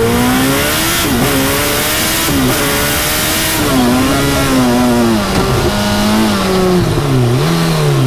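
Turbocharged Suzuki Hayabusa inline-four engine in a three-wheeled Bond Bug running under load. Its pitch climbs and drops, with sudden dips about one and two and a half seconds in, then falls away and rises again near the end, over wind and road noise.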